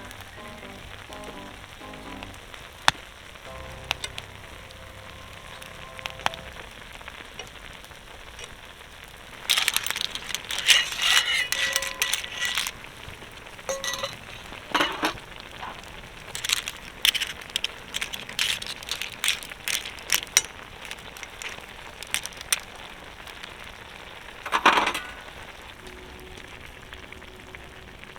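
Seafood acqua pazza sizzling in a pan over a wood campfire, with irregular sharp crackles and pops that grow dense about ten seconds in. Faint background music in the first few seconds.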